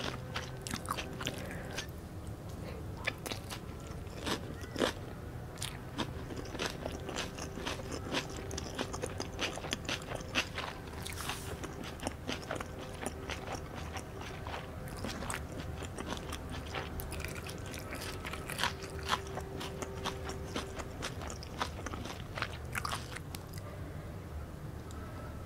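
Close-miked ASMR chewing of fresh Vietnamese rice-paper spring rolls filled with raw lettuce, herbs and beef. Steady chewing with many sharp, irregular crunches throughout.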